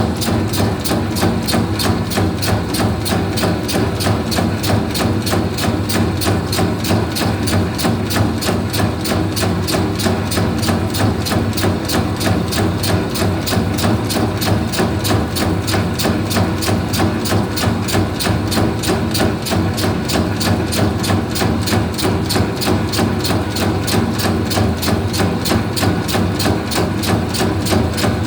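Meatball-forming machine running steadily: an electric motor hum under a fast, even knocking from the mechanism.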